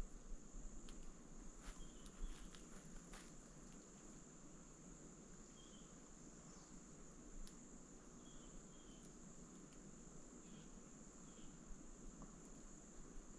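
Steady high-pitched insect trill, faint and unbroken, with a few short faint chirps scattered through it and some light clicks in the first few seconds.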